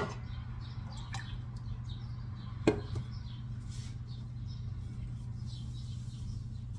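Metal cookware knocked twice in handling, sharp clanks with a short ring, the second about two and a half seconds after the first, over a steady low hum.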